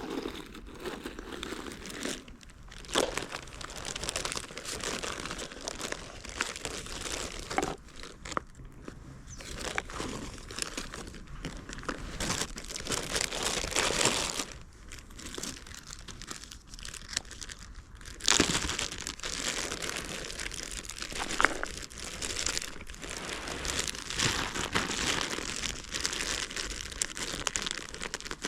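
Plastic packaging being handled: crinkling and crumpling with some tearing, in irregular bouts with short lulls.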